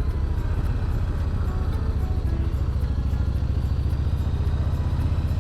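Motorcycle engine running steadily at low revs, a fast even pulsing drone with no revving.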